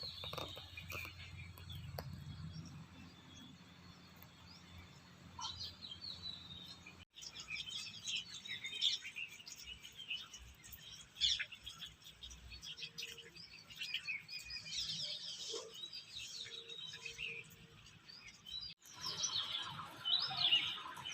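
Small birds chirping, with many short, quick calls overlapping throughout. A low rumble underlies the first part.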